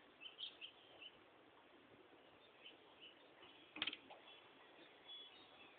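Faint bird chirps, short and high, mostly in the first second, over near silence. A single sharp click comes about four seconds in.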